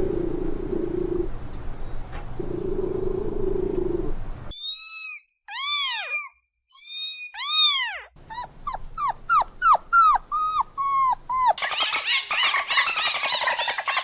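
A run of different animal calls one after another: first a steady low buzzy drone, then several high whining calls that rise and fall, then a quick series of short falling squeaks, and finally dense squealing. The calls are dog-like.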